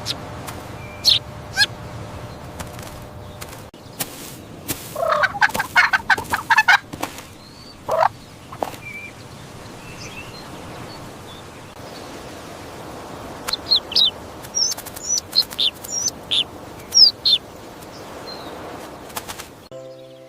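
Farm poultry calling: short high chirps scattered throughout, with a louder rapid rattling run of calls about five to seven seconds in.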